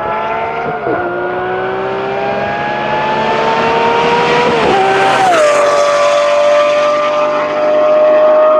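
2007 Lamborghini Murciélago LP640's V12 on custom long-tube straight-pipe exhaust accelerating hard, with an upshift about a second in and the pitch climbing again. It sweeps past about five seconds in, its pitch dropping, then pulls away at a steady note.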